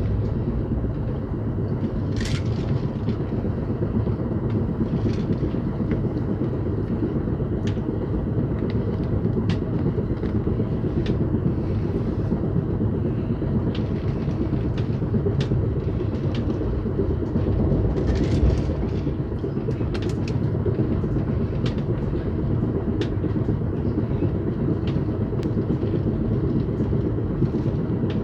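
Amtrak passenger train in motion: a steady rumble of the cars running on the rails, with scattered clicks and a few brief higher-pitched noises, one about two seconds in and a couple around eighteen to twenty seconds in.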